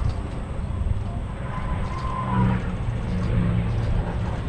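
P-51 Mustang's V-12 piston engine and propeller in a low pass: a steady rumble, with the engine's tones standing out about halfway through.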